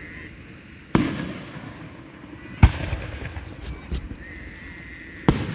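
Fireworks exploding overhead: three loud booms, each trailing off in a rumble, about a second in, near the middle and near the end, with a couple of sharper cracks between the last two.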